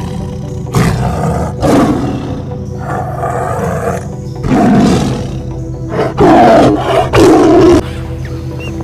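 A wild animal roaring about five times, rough calls of half a second or so each, the last two loudest, over steady background music.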